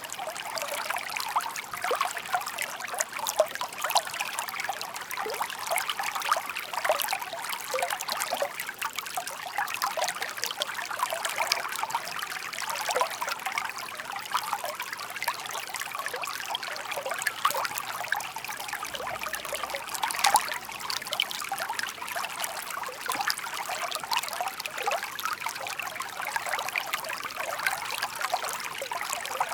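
Shallow park stream babbling and trickling steadily over stones, a dense patter of small splashes.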